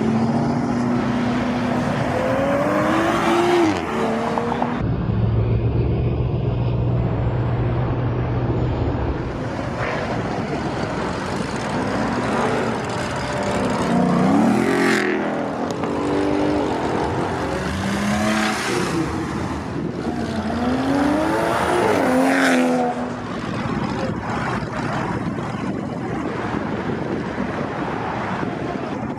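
Performance cars pulling away one after another, their engines revving up in a series of rising surges, with a steady low engine idle between them.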